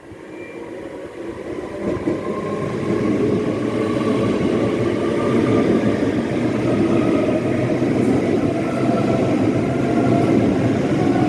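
Electric train moving through the station, the rumble of wheels on rail growing louder over the first few seconds and then holding steady, with a faint motor whine rising slowly in pitch as it picks up speed.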